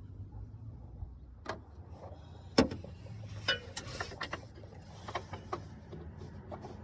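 Metal tools and parts clicking and clinking in irregular short knocks, with one sharp, loud knock about two and a half seconds in, over a low steady hum.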